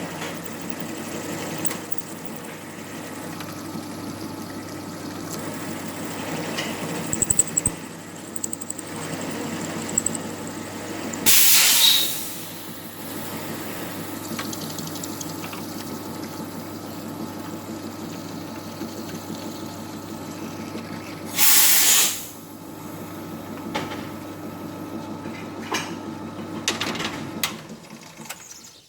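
Small metal lathe running steadily with a motor hum while turning small steel parts, with light cutting and scraping noises. Two brief, loud hissing bursts come about eleven seconds in and again about ten seconds later. The hum stops near the end.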